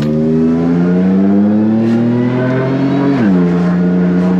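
Holden VX Commodore's engine accelerating, heard from inside the cabin: the pitch climbs steadily, drops sharply as it shifts up about three seconds in, then holds steady.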